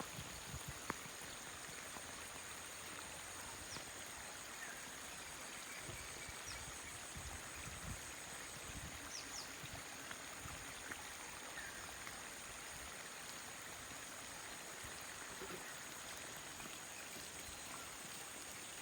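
Water running steadily, like a stream, with a constant high-pitched drone above it and a few faint, short chirps.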